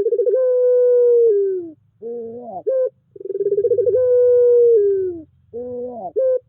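Puter pelung dove cooing: two long drawn-out coos, each opening with a quick stutter, held steady for over a second and sliding down at the end, each followed by a short rising-and-falling note.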